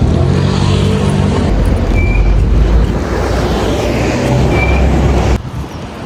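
Steady low rumble of a motor vehicle running, cutting off abruptly about five and a half seconds in.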